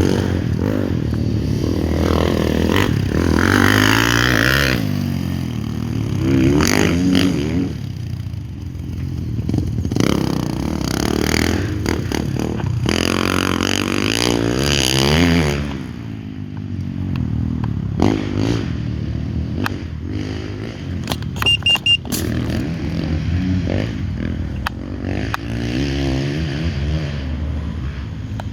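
Off-road dirt bike engines revving and riding, the engine pitch repeatedly climbing and dropping as the bikes accelerate and back off, with several loud surges in the first half. A few sharp clicks and knocks come in the second half.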